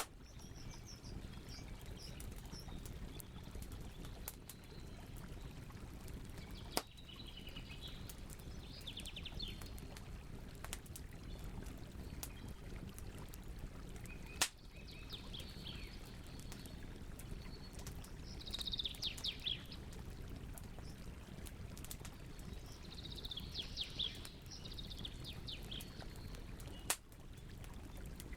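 Campfire crackling, with scattered small clicks and a few sharp pops over a steady low rush. A songbird sings short, rapid chirping phrases every few seconds.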